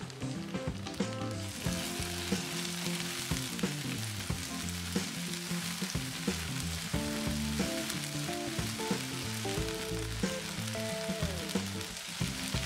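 Ginger-garlic paste and chopped onions sizzling in hot oil in a nonstick kadai, stirred with a wooden spatula that gives off small clicks and scrapes against the pan. The sizzle thickens and grows louder about a second and a half in. Soft background music plays underneath.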